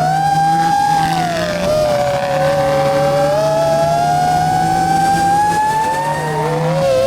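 Rally car engine running under load. Its note dips about a second in, then climbs slowly for several seconds before falling back near the end. A steady low drone underneath drops out briefly twice.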